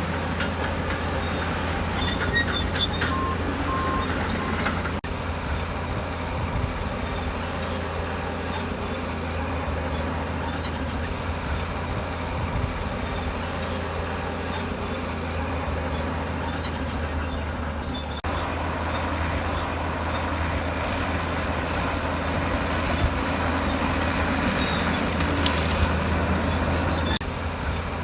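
Komatsu D65EX bulldozer's diesel engine running steadily under load, with a few short high clicks and squeaks in the first five seconds. The sound changes abruptly about five seconds and about eighteen seconds in.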